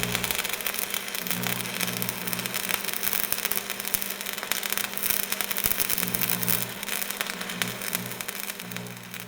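Bowling alley din: a steady noisy clatter with a low hum underneath, fading out near the end.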